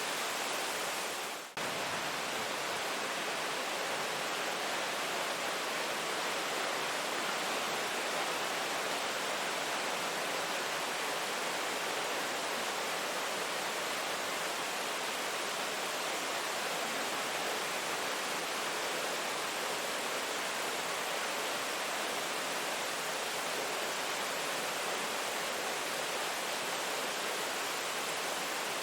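Steady heavy rain falling, an even hiss with no distinct drops or thunder. The sound dips for a moment about a second and a half in.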